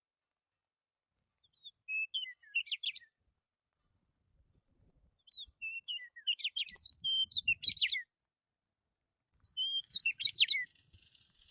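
A bird chirping in three bursts of quick, high twittering notes, with short silent gaps between the bursts.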